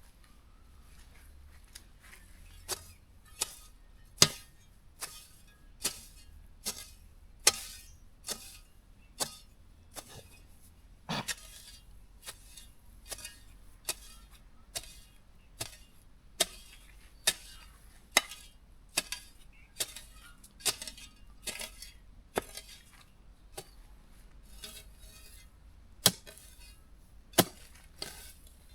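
A hand tool chopping into the ground to clear weeds and grass, striking at an even pace of roughly one blow a second. Some blows land harder than others.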